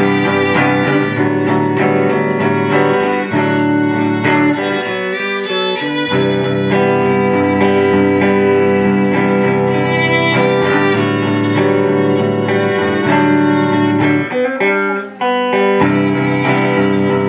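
Live band playing an instrumental passage between vocal lines: strummed guitar with violin, with two brief drops in the low end, about five seconds in and near the end.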